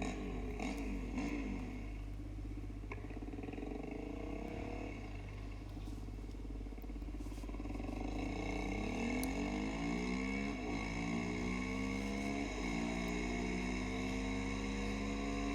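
Quad bike engine accelerating, its pitch climbing, dropping sharply at a gear change, climbing again, then dropping at a second gear change before holding high. A steady low hum runs underneath.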